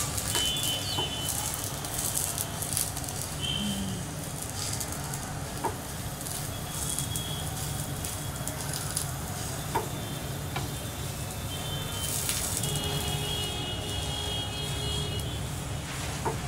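Parotta frying in oil on a flat tawa, sizzling steadily over a low hum, with a few light taps of a wooden spatula pressing and turning it.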